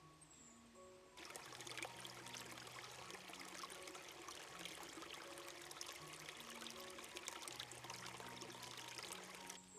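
Running water, like a stream splashing over stones, comes in suddenly about a second in and cuts off just before the end. Soft music with long held notes plays underneath.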